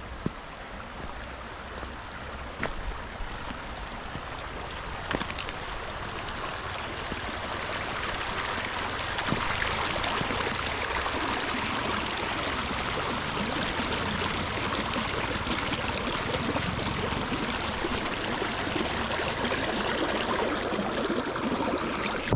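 A steady rushing noise, like fast water or wind, swelling louder over the first half and then holding.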